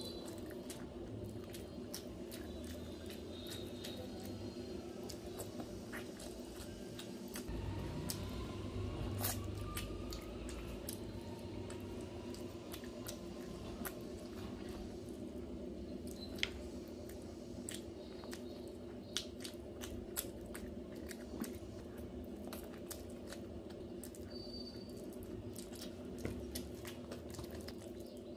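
Close-miked chewing and wet mouth clicks of a person eating rice pulao and chicken curry by hand, with fingers squishing and gathering rice on a steel plate, over a steady low hum.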